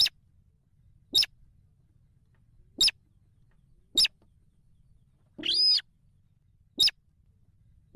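Weris (slaty-breasted rail) chicks calling: a series of short sharp peeps about one to one and a half seconds apart, with one longer arching call about five and a half seconds in.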